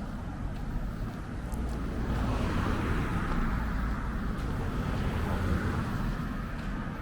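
Street traffic: a vehicle passing by, its road noise swelling from about two seconds in and fading away near the end, over a steady low rumble.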